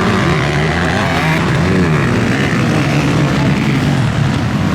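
Several motocross bikes' engines running hard together, their pitch rising and falling as the riders open and close the throttle.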